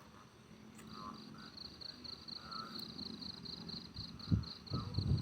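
Insects chirping steadily in a fast, even pulse of about five chirps a second. Near the end, strong wind gusts buffet the microphone with loud low rumbles.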